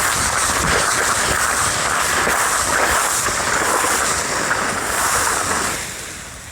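Steady loud rush of wind on the microphone mixed with ocean surf; it drops away about six seconds in.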